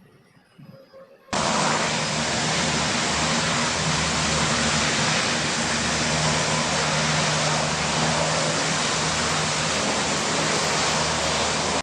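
Hovercraft running: a steady rushing noise over a low, even drone. It starts abruptly about a second in and cuts off suddenly.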